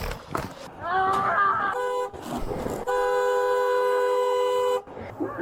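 Car horn sounding: a brief toot, then a long steady blast of about two seconds with a two-note horn tone. Just before it, a short wavering whine rises and falls.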